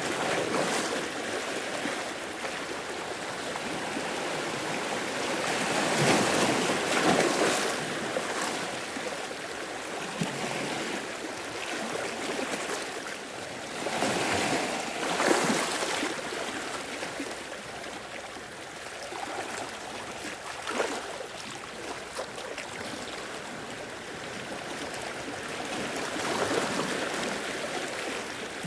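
Small waves washing and lapping against rocks and shore, swelling and breaking every several seconds with short splashes between.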